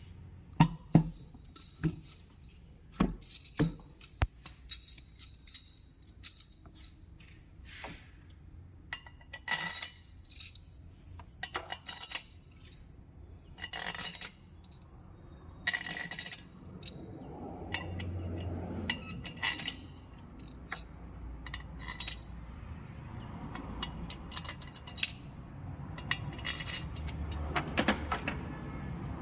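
Irregular metallic clinks and taps of hand tools and metal engine parts being handled, with a low rumble building up behind them in the second half.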